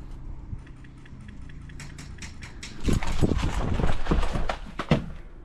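Rapid run of small clicks and knocks, then from about three seconds in heavier thumps and rustling: quick footsteps and gear rattling from a moving airsoft player.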